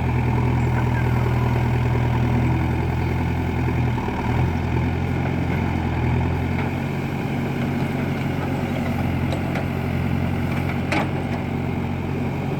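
Heavy diesel engine running steadily, its note shifting about four seconds in, with a single short click near the end.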